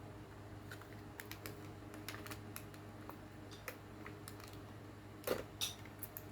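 Scattered light clicks and taps, a few a second, with two louder knocks about five seconds in, over a faint steady hum.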